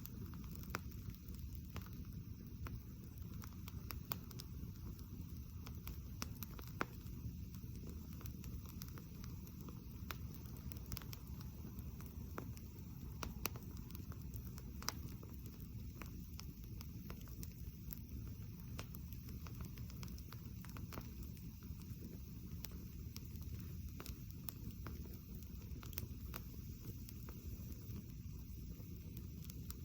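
Wood campfire burning directly on the ground, crackling with scattered sharp pops over a low steady rush.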